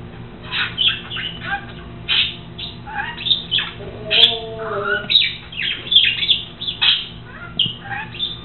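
A pet bird chirping and squawking over and over, with quick, sharp, falling calls.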